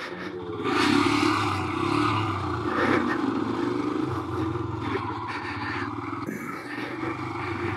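Royal Enfield Himalayan's single-cylinder engine pulling the motorcycle along a dirt track, rising in pitch and getting louder about a second in, then running steadily, with a rush of wind and tyre noise over it.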